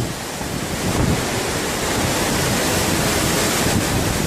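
Strong wind buffeting the microphone over a rough sea: a loud, steady rush of wind and breaking water.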